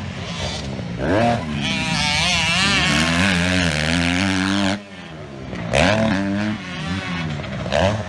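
Single-cylinder four-stroke motocross bike engine revving hard under throttle, its pitch climbing and falling as it accelerates. About five seconds in the throttle is chopped and the note dips, then it picks up again.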